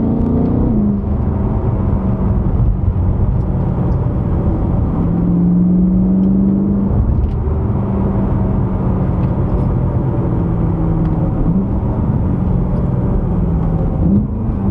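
BMW E92 M3's 4.0-litre V8 engine running under way. Its pitch drops about a second in, holds steady for most of the time, and then rises in two quick blips near the end.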